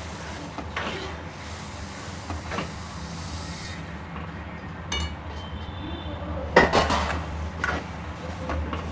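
Spoon scraping and knocking against a pan while jaggery syrup is stirred into sesame seeds, a handful of scattered clinks with one louder knock about two-thirds through.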